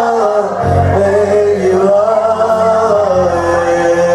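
Live band music, the instrumental opening of a Turkish pop song: a held melody line that glides slowly up and down over a bass, which comes in about half a second in.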